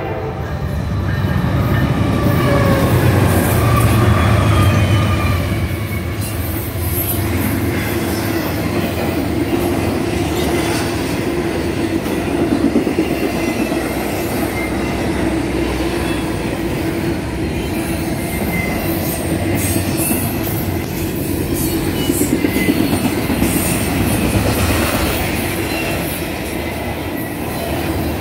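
Intermodal freight train passing close by, loudest in the first few seconds with a heavy low rumble, then trailer-on-flatcar cars rolling past with steel wheels squealing and clacking over the rails.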